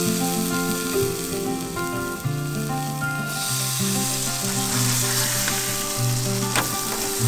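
Fish burgers sizzling steadily in hot oil in frying pans, with a couple of short clicks near the end as a patty is turned. Background music plays under the frying.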